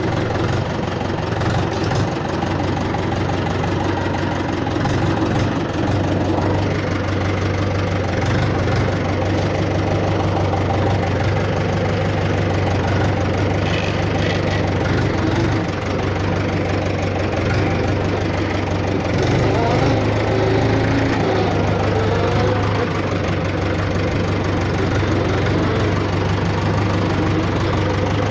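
Engine idling steadily, with an even low hum and a knocking clatter.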